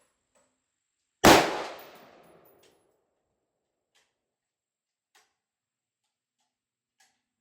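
A single AR-15 rifle shot in 5.56, a sharp crack about a second in that dies away in an echo over about a second and a half. A few faint clicks follow.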